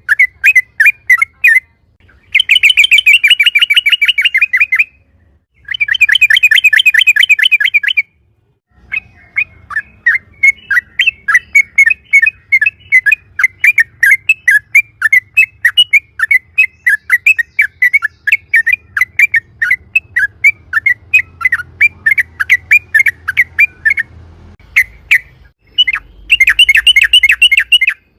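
Yellow-vented bulbul (trucukan) singing loudly. It alternates dense, rolling trills with long runs of quick, evenly spaced chirps, about four a second.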